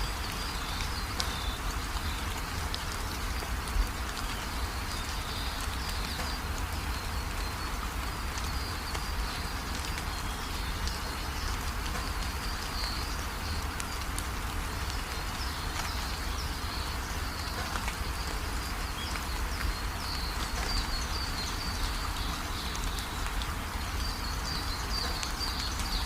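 Steady rain falling, a dense patter of drops over a low rumble, with faint high chirping in the background.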